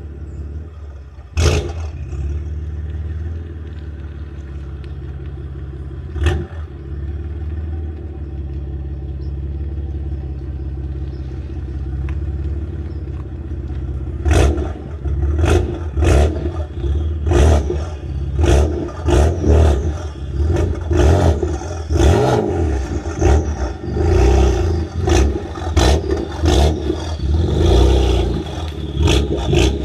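BMW M4's twin-turbo inline-six, breathing through a catless downpipe, single midpipe and Dinan muffler, gives a sharp burst and then idles with a steady low drone. About halfway through, it is revved in quick blips roughly once a second, with sharp cracks from the exhaust.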